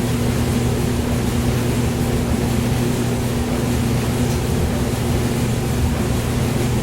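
Hair dryer running continuously: a steady rush of blown air over a constant low motor hum, used as white noise.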